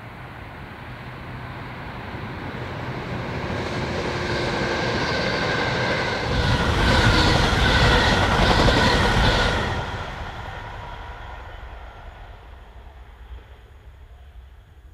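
A diesel multiple unit passenger train approaches, passes close at speed about six seconds in with a run of wheel clatter over the rails, then fades as it runs away.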